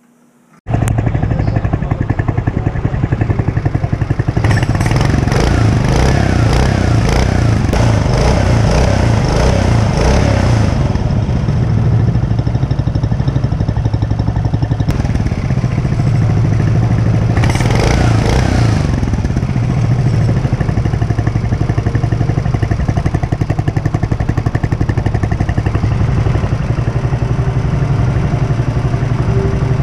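Mokai's small single-cylinder four-stroke engine starting about half a second in and running through the new water-cooled, baffled stainless steel muffler. It idles steadily and is revved up twice, a long rev early on and a short one past the middle.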